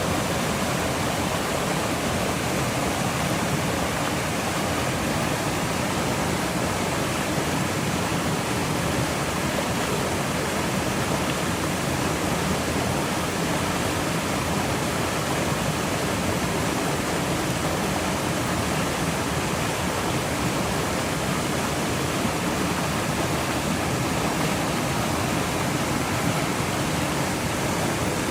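Steady, even rush of fast-flowing water, like a stream or waterfall in spate.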